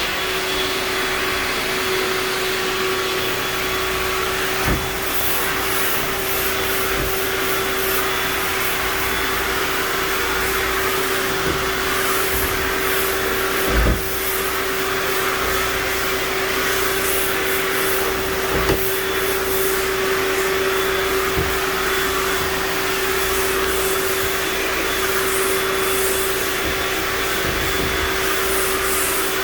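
Vacuum cleaner switched on and running steadily with a constant motor tone, with a few short knocks as it bumps against surfaces.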